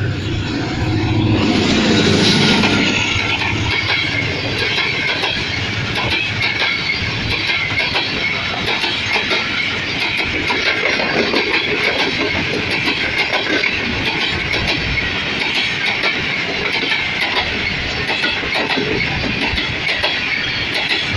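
A ZCU-30 diesel locomotive passes close by about two seconds in, its engine loudest there, then a long train of passenger coaches runs past at speed. The wheels make a steady rolling rush with rhythmic clickety-clack over the rail joints.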